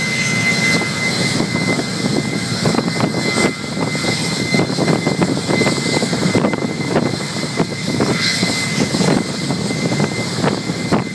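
Boeing 757's turbofan engines running at high power during a maintenance engine run-up: a loud, steady rush of noise with a thin, steady high whine over it.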